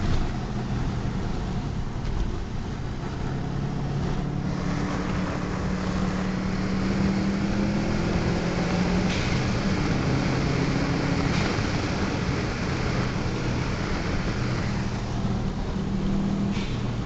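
Subaru WRX's turbocharged flat-four engine pulling the car along, heard from inside the cabin over road and wind noise; the engine note climbs as it accelerates about four to seven seconds in.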